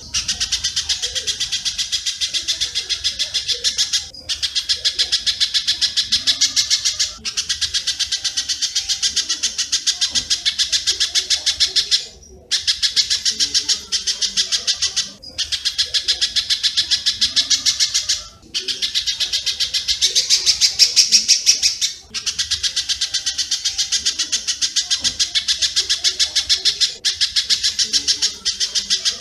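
Master recording of spiderhunter (pijantung) and swiftlet (walet) calls: a dense, rapid, high-pitched chatter in runs of a few seconds, broken by brief pauses.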